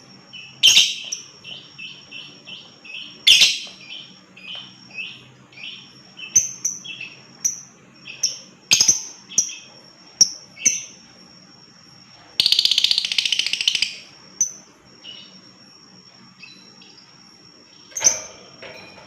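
Lovebird calling: a run of sharp, shrill chirps in quick series, then a fast rattling trill of about a second and a half, the chattering 'ngekek', before a few more shrill calls. A thin steady high whine sits underneath.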